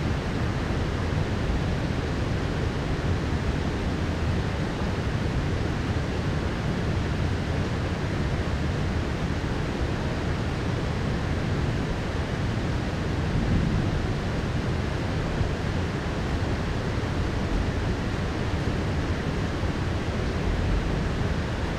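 Heavy downpour of rain, a steady dense hiss with a deep low rumble underneath.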